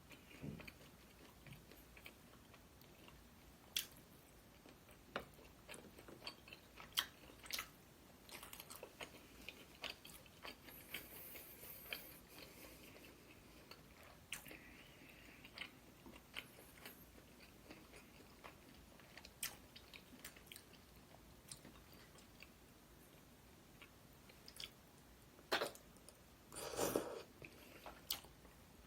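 A person chewing and biting food close to the microphone, with scattered short crunches and clicks. A louder cluster of crunching comes near the end.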